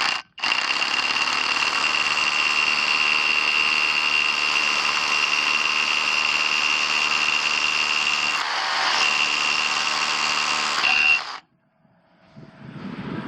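Kobalt 24V Max SDS Plus rotary hammer in hammer-drill mode, driving a half-inch masonry bit through a masonry block. It starts just after the beginning, runs steadily with a high whine for about eleven seconds, and stops abruptly once the bit is through.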